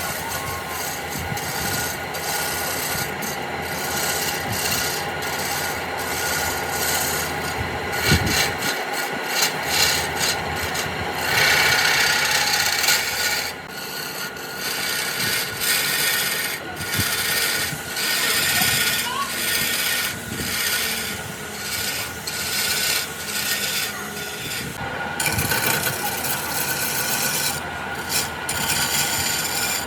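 Wood being abraded: a steady rubbing scrape with short uneven strokes, over a steady hum.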